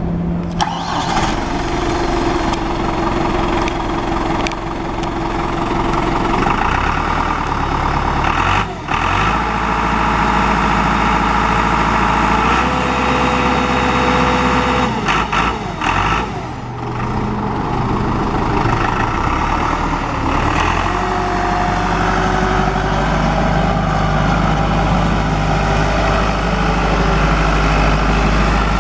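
John Deere 5525N tractor's diesel engine running steadily, its note shifting several times, with brief dips about 9 and 16 seconds in.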